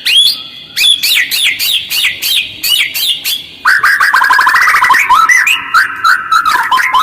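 White-rumped shama (murai batu) singing a fast, harsh chattering song with short pauses: sharp sweeping notes about three a second, then, about halfway through, a dense rapid run of lower notes. It is a lure song meant to prompt other shamas to sing.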